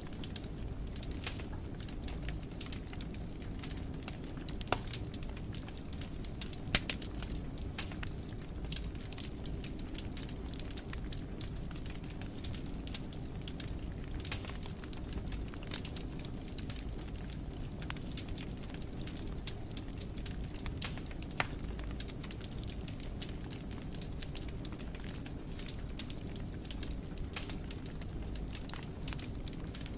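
Wood fire crackling in a fireplace: a steady low rumble of flames with irregular sharp pops and snaps, a couple of louder pops in the first quarter.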